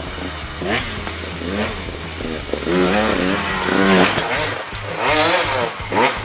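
KTM 150 XCW's single-cylinder two-stroke engine being revved hard while ridden, its note climbing and dropping again and again about once a second as the throttle is worked.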